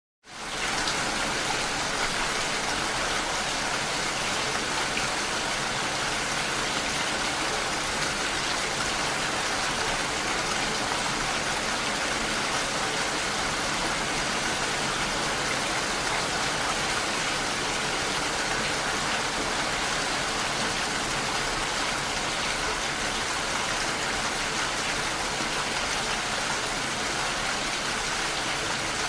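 Steady rain, an even hiss with no breaks, fading in from a moment of silence at the very start.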